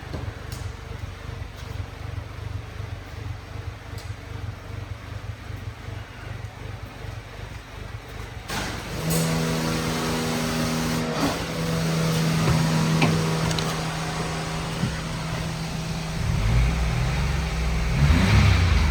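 2019 Mitsubishi Mirage 1.2-litre three-cylinder engine running at idle, then revved up about nine seconds in and held at a higher speed with a steady tone, getting louder again near the end.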